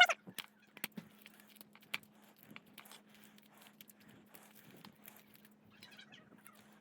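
Scissors snipping paper into small squares: a string of light, irregular snips and paper rustles.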